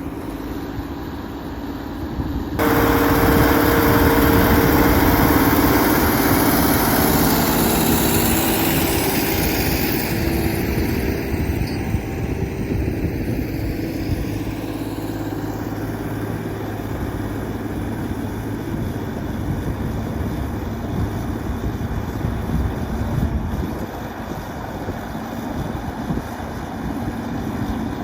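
T-150K tractor's diesel engine running steadily while pulling a plough. It becomes abruptly louder about three seconds in, then fades gradually over the following seconds.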